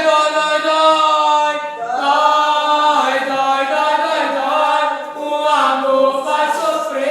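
Group of voices chanting a sung ritual ponto in long held, gliding notes, without drums.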